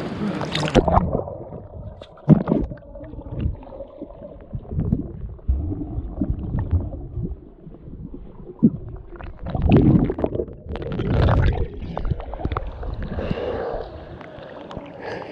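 Muffled gurgling and sloshing of water heard by a camera held underwater, with irregular low thumps and swells of bubbling. About a second in, the sound loses its high end as the camera goes under.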